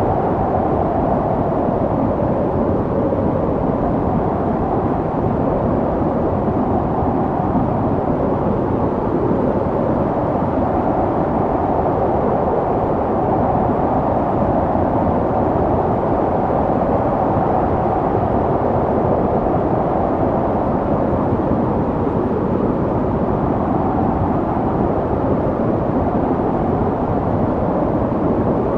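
Snowstorm wind blowing steadily: a dense, low rushing noise with a faint hollow tone that swells and eases slowly.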